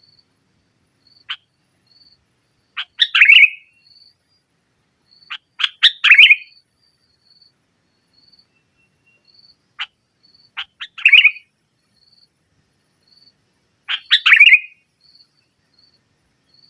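Sooty-headed bulbul singing in full voice: four loud phrases, each a few sharp notes running into a quick warbled burst, with a couple of single sharp notes between them. A faint high short chirp repeats steadily about every two-thirds of a second underneath.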